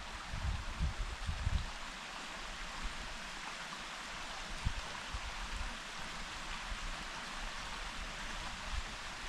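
Steady rushing hiss of outdoor forest ambience, with low rumbles of wind on the microphone in the first second and a half.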